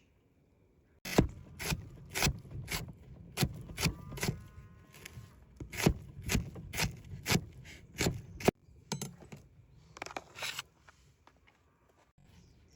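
A series of sharp knocks or taps, about two a second, starting about a second in and breaking off suddenly about eight and a half seconds in, followed by a few scattered knocks.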